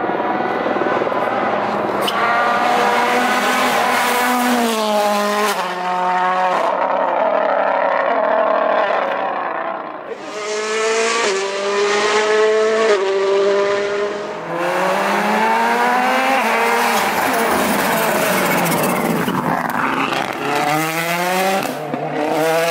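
World Rally Car's turbocharged engine revving hard as it accelerates through the gears: the pitch climbs, drops at each upshift and climbs again, several times over, with the loudness easing briefly between runs.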